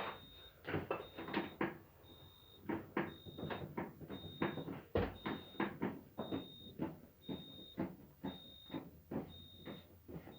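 Refrigerator's door-open alarm beeping, a high steady tone of about half a second repeating roughly once a second: the door is standing open. Irregular knocks and clicks from hands working on the door sound under it.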